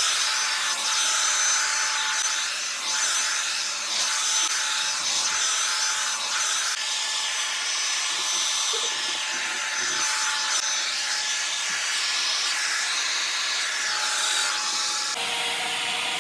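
Hot air brush (hair dryer brush) running: a steady rush of blowing air with a thin motor whine, with the brush rubbing through hair. The whine shifts slightly near the end.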